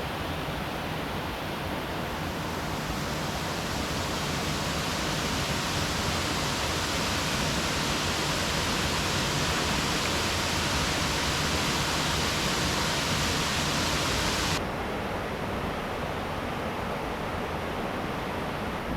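Steady rush of flowing river water, a continuous hiss without distinct splashes. About three-quarters of the way through it changes abruptly to a duller, slightly quieter rush.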